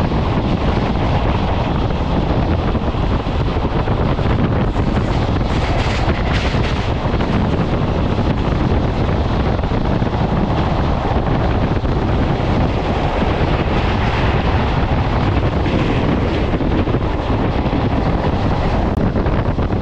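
Steady running noise of a moving passenger train, a dense rumble and rush, with wind buffeting the microphone.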